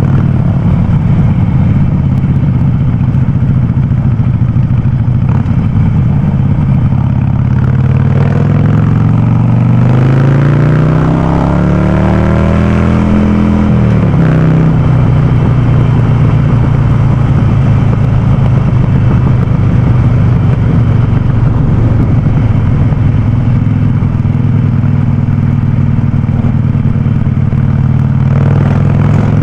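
Harley-Davidson Sportster 48's air-cooled V-twin running loud through an aftermarket VnH open exhaust while riding. It runs steadily, revs up in a rising pitch from about eight seconds in to about thirteen seconds, drops off sharply, then runs steadily again.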